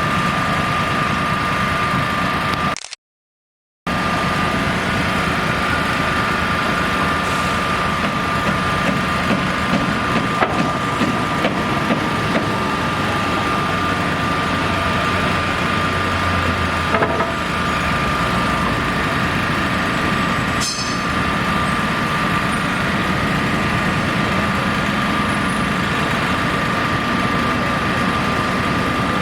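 A heavy engine running steadily, like an idling truck or construction machine, with a constant high whine over a low rumble and a few light knocks. The sound cuts out completely for about a second near the start.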